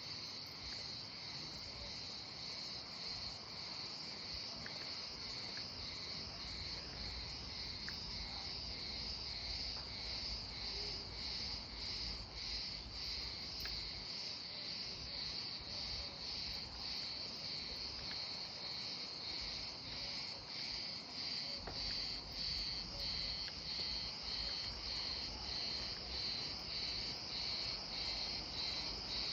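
Crickets chirping in a steady chorus, a high trill pulsing about one to two times a second, over a faint low rumble.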